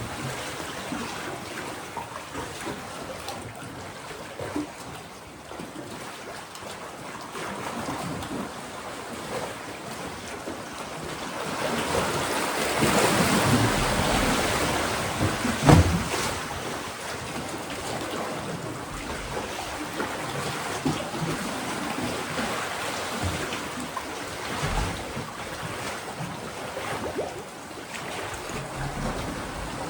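Sea waves washing against a rocky shore in a steady, noisy wash. In the middle they surge louder for a few seconds, ending in one sudden thump.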